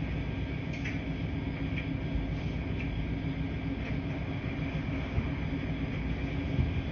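Laundry-room washing machines running with a steady low rumble and hum. Faint light clicks recur about once a second over it.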